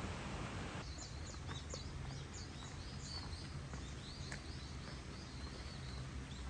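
Birds chirping rapidly, many quick high calls over a low steady outdoor rumble. Before that, about a second in, a steady rushing hiss cuts off abruptly.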